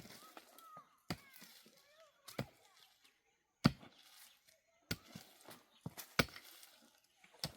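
Repeated chopping blows, a sharp strike about every second and a quarter, six in all, with lighter knocks between.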